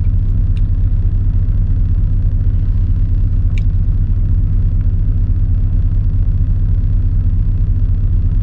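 Semi truck's diesel engine idling, a steady low rumble heard from inside the cab, with a couple of faint ticks over it.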